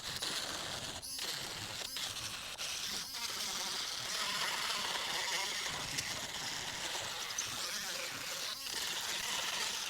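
Miniature rotary tool with a small sanding head buzzing as it sands wood, a steady high whine with a few brief dropouts.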